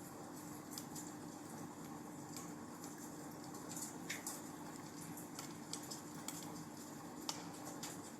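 Wood fire crackling in a fireplace: irregular small pops and snaps over a soft steady hiss.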